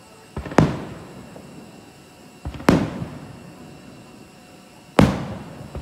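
Aerial firework shells bursting overhead: three loud booms about two seconds apart, each trailing off in a long echo.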